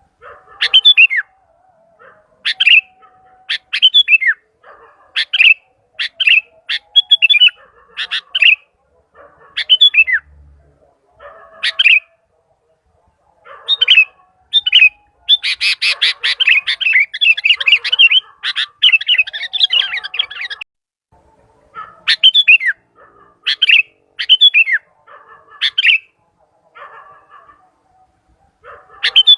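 Sooty-headed bulbul (kutilang) calling loudly and repeatedly, in short sweeping phrases about once a second, with a burst of rapid chattering notes around the middle.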